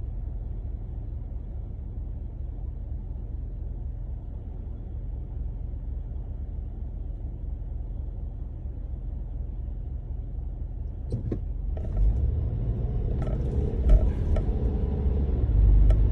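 Car road noise heard inside the cabin while driving on a snowy road: a steady low rumble that grows louder and fuller about twelve seconds in, with a few sharp clicks near the end.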